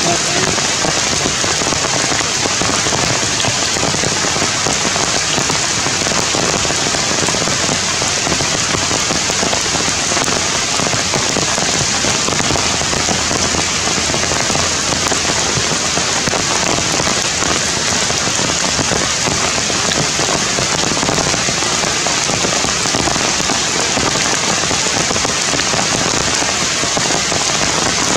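Steady rain falling on the leaves of a tree, an even hiss that keeps up without a break.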